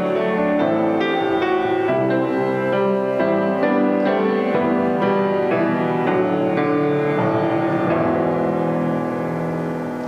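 Piano music with sustained chords changing every half second or so, thinning and growing quieter near the end.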